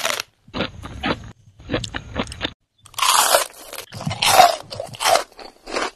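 A person chewing crunchy grilled chocolate tiles: runs of quick, crisp crunches, louder and denser in the second half.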